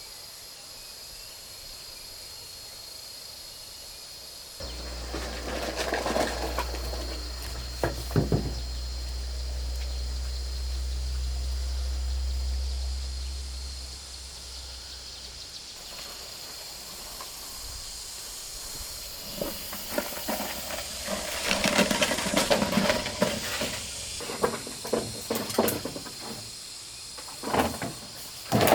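A steady high-pitched insect chorus of crickets or cicadas, with scattered knocks and rustling that come thickest in the second half. A low rumble runs from about five seconds in to about fourteen seconds in.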